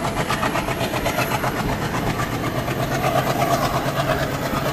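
Indian Railways passenger train (the Boat Mail Express) running along the track, heard from an open coach door: a steady rumble of wheels on the rails with a fast, even clatter.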